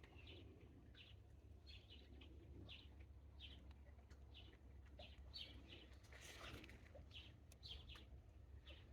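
Faint garden birds chirping, short high chirps repeating about once or twice a second over a low steady rumble, with a brief rustling burst about six seconds in.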